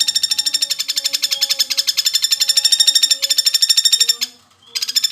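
Common flameback woodpecker giving its long, very fast rattling trill, about eighteen high notes a second; it stops briefly about four seconds in and starts again near the end.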